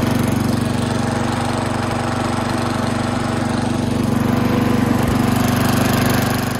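Riding lawn mower's small gasoline engine running steadily at a constant speed.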